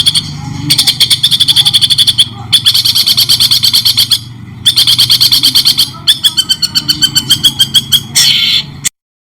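Songbird song for masteran: fast strings of sharp, repeated notes, about ten a second, in phrases broken by short pauses. The recording cuts off abruptly near the end.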